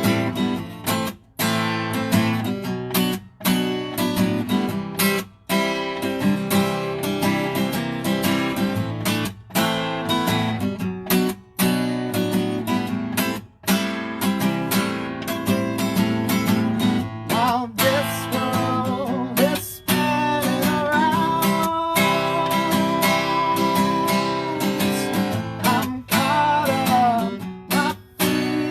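Acoustic guitar strummed in a live solo song performance, with short breaks between phrases. In the second half a long, wavering note is held over the strumming.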